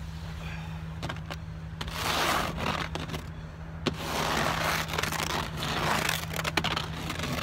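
An extendable snow brush scraping snow off a van's roof-mounted solar panel in several separate sweeping strokes, with a sharp click near the middle.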